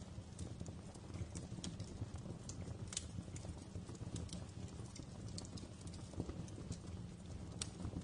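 Wood fire crackling in a fireplace: irregular sharp pops and snaps over a low steady rumble of the flames, with louder pops about three seconds in and near the end.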